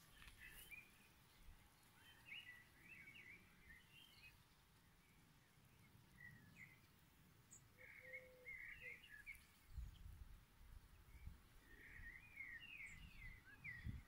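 Faint birdsong: a small songbird twittering in short quick phrases every few seconds, over a low outdoor hush with a few soft low rumbles.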